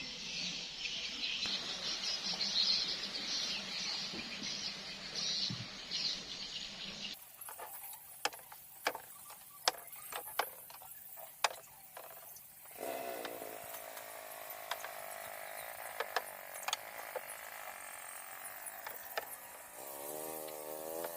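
Woodworking noise: first a hiss with chirps, then a run of sharp knocks, then a small power tool's motor running steadily, its pitch rising near the end.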